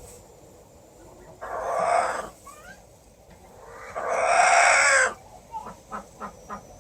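A farm animal calling twice, each call harsh and drawn out, the second longer and louder, with small bird chirps between and after.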